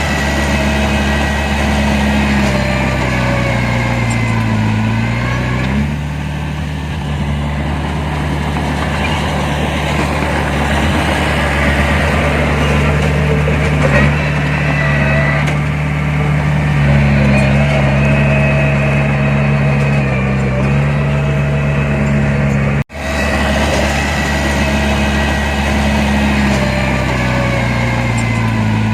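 Heavy diesel engine of earthmoving machinery running under load, its revs dipping and climbing again several times. The sound drops out for an instant about three-quarters of the way through.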